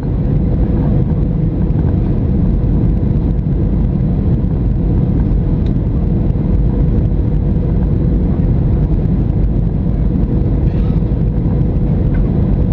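Steady jet noise heard inside the cabin of a Boeing 737-700: an even, loud rumble of engines and airflow, with a thin steady hum running through it.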